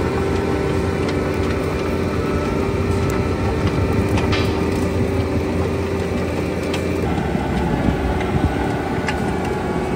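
Bobcat T86 skid steer's diesel engine running under load, driving a Coneteks forestry-rotor mulcher that grinds stumps and roots into the soil. A steady drone and a held whine, with scattered sharp ticks from debris.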